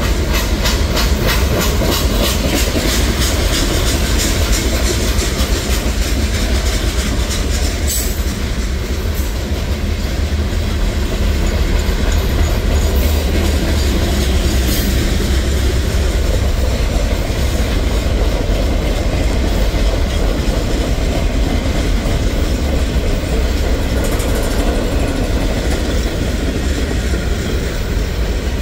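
Freight cars of a CSX manifest train rolling past close by: a steady, heavy rumble with a regular clickety-clack of steel wheels over the rail joints, most distinct in the first third.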